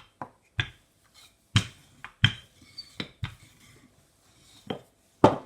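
A rolling pin knocking and clacking against the board as dough is rolled out: about eight sharp, irregular knocks.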